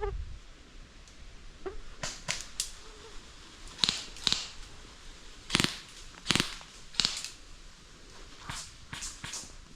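Airsoft guns firing single shots: about ten sharp cracks at irregular intervals, some closer together in pairs.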